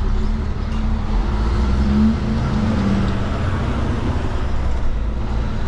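Kenworth K200 cabover truck's engine running steadily with road noise while driving.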